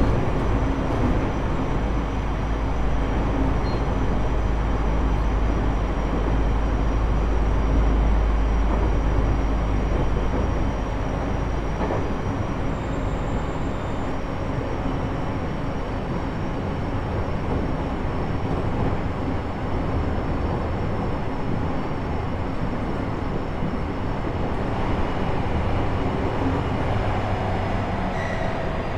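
Inside a JR East E127 series EMU motor car (KuMoHa E127-11) running at a steady speed between stations: continuous wheel-on-rail running noise, with steady level tones from the traction motor and gearing. A heavy low rumble eases off a little under halfway through.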